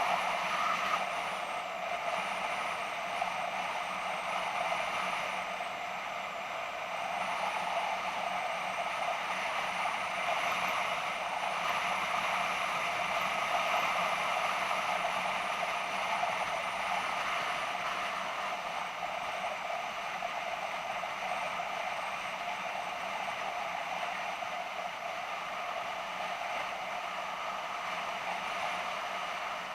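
BMW F650GS motorcycle under way: steady engine and road noise while riding, with no marked change in pace.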